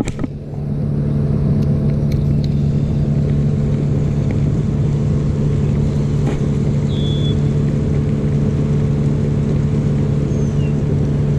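A loud, steady motor hum with low rumbling underneath, with a few short high bird chirps about two thirds of the way through.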